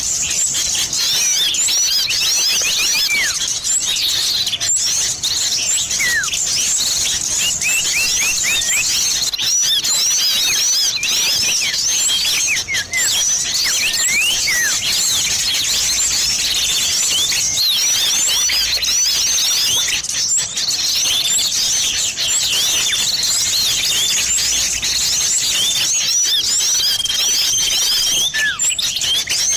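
A dense mix of small songbird calls, rapid chirps and quick falling whistles overlapping without pause, made as a lure to draw small birds, combining sirtu and cipoh (common iora) calls. One held whistle near the end.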